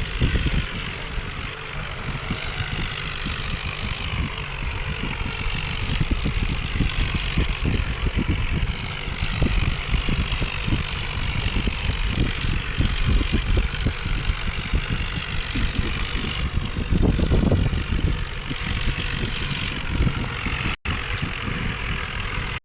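Tractor engines running with a heavy, uneven rumble. The sound changes abruptly several times, as if separate clips are joined, and briefly cuts out near the end.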